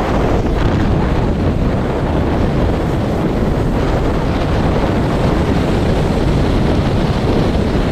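Wind buffeting the microphone while riding a bike, a steady low rumble with no break.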